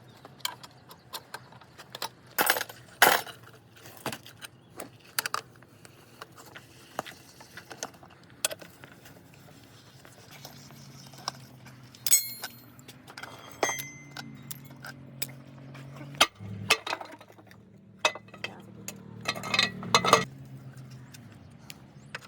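Metal tools and gearbox parts clinking and knocking irregularly while a heavy truck's gearbox is being opened, with the hardest strikes about two and a half seconds in and again near the end. A faint low steady hum runs underneath.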